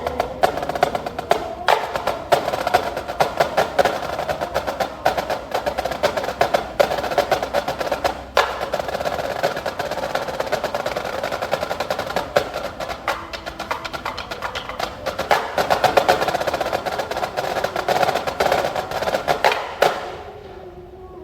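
Marching band percussion playing fast, dense rhythmic patterns with drum rolls and sharp wood-block-like clicks, pausing briefly about eight seconds in and stopping suddenly about a second before the end.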